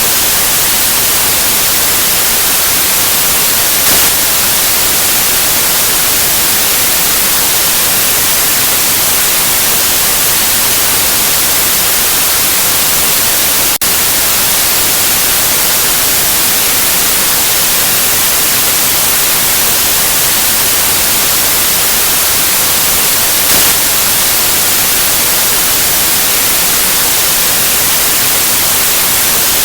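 Steady, loud white noise: an even hiss with no tones or rhythm, brightest in the treble, with a momentary dip about halfway through.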